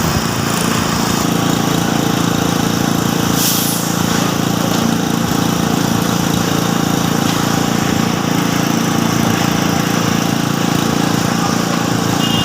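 Small engine of road-works machinery running steadily, with a brief hiss about three and a half seconds in.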